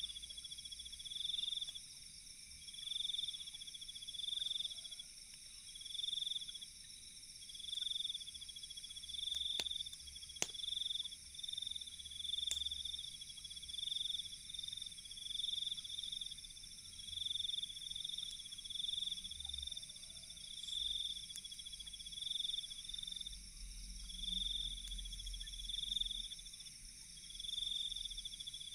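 Night insects chirping in a steady chorus: one loud call repeating about once a second over a continuous high buzz. Two or three sharp crackles from the campfire stand out near the middle.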